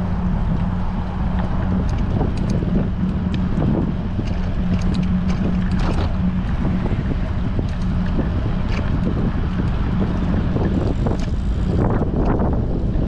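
Wind buffeting the microphone of a camera on a moving bicycle, a steady rushing rumble over a constant low hum, with scattered light ticks and rattles.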